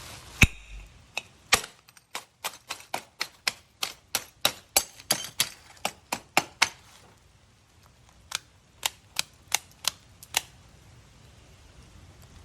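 Krate Tactical "The Ghost" double-action out-the-front knife snapping its blade out and back over and over, sharp metallic clicks about three a second; after a short pause, six more.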